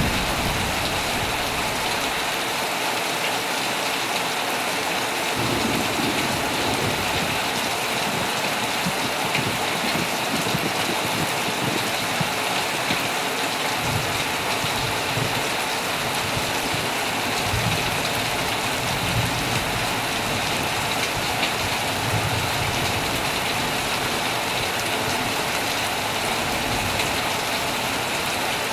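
Heavy rain falling steadily on a tent, a dense even hiss of drops with no let-up.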